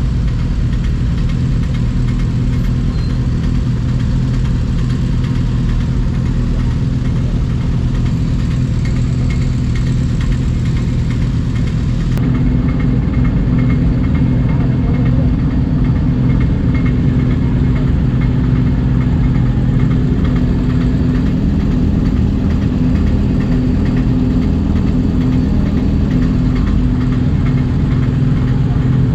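Motor vehicle engine running at an even, steady speed, with a slight shift in its tone about twelve seconds in.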